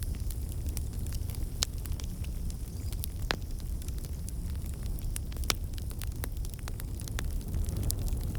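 Wood fire crackling in a fireplace: irregular sharp pops and snaps over a steady low rumble of the flames, with a few louder pops about one and a half, three and five and a half seconds in.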